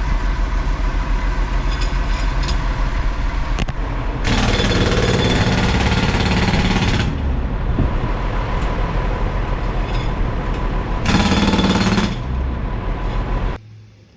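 Jackhammer breaking up concrete in a fast, steady rattle. It gets louder and hissier for about three seconds starting four seconds in and again briefly near the end, then stops shortly before the end.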